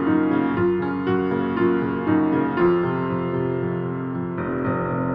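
Slow, gentle instrumental music: a melody of notes changing about every half second, giving way about three seconds in to longer held notes.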